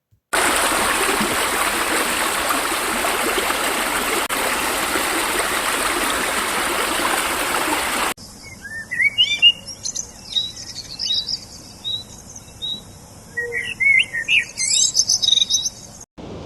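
Nature sound recordings played back to back. First comes about eight seconds of steady rushing noise that stops abruptly. Then songbirds chirp and twitter in quick, rising and falling calls.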